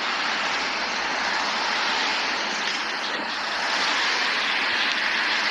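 Traffic noise as garbage trucks drive past: a steady rush of tyres and engines that swells twice.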